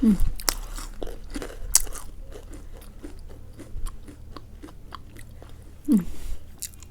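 Close-up crunching and chewing of crisp snack chips: sharp cracks as pieces are bitten, then a run of smaller crackles as they are chewed. Two brief falling vocal sounds, one at the very start and one near the end.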